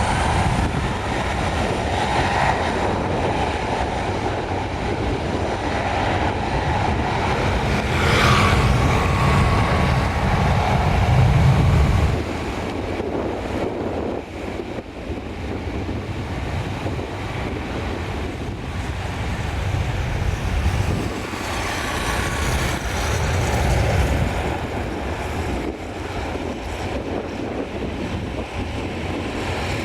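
Wind buffeting the microphone over jet airliner engine noise, with a faint steady whine in the first few seconds. The low rumble of the wind swells and then drops off suddenly about twelve seconds in.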